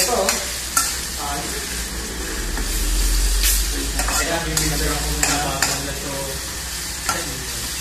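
Sliced tomatoes and onions sizzling in an aluminium wok as they are sautéed. A metal spatula scrapes and clinks against the pan several times as it stirs.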